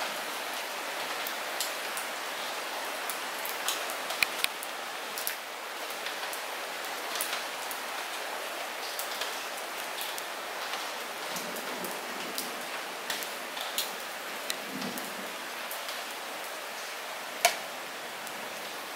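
Light rain falling steadily: an even hiss with scattered sharper drop impacts, and one louder drop near the end.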